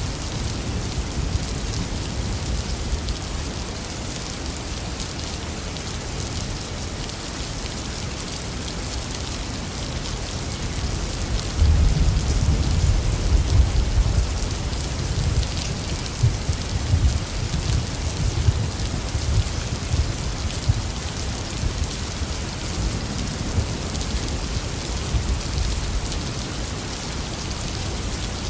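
Heavy rain falling steadily. About twelve seconds in, a long low roll of thunder rumbles for roughly ten seconds and fades.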